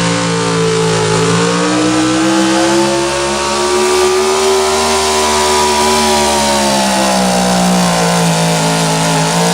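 Super stock 4x4 pulling truck engine running hard at high revs under load. Its pitch dips, rises over several seconds, then falls back.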